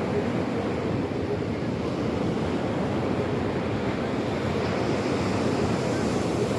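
Sea waves washing steadily, with wind on the microphone adding a low rumble.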